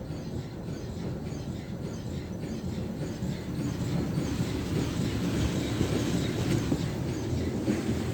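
Jim Coleman Water Wizard 1.0 automatic car wash running, a steady rumble of pumps and machinery with hissing water spray, growing louder about four seconds in.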